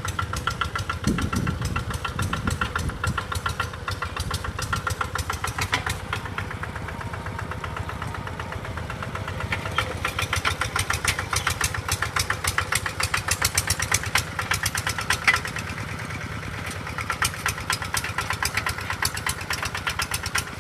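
A small engine running steadily with a fast, even knocking beat, growing somewhat louder partway through.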